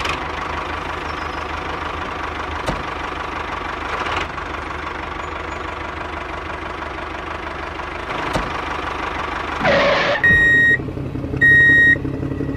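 Tractor engine sound running steadily as the toy tractor pulls its trailer. About ten seconds in it gives way to three long, high electronic beeps a little over a second apart, like a reversing alarm.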